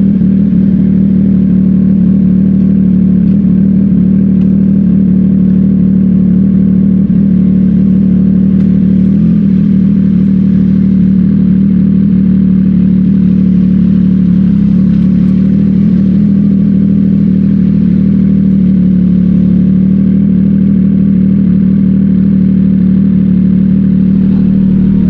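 CFMOTO 675NK's inline three-cylinder engine through an aftermarket Burnout titanium exhaust, running at a steady engine speed during a ride. Its note holds a steady pitch with only slight dips.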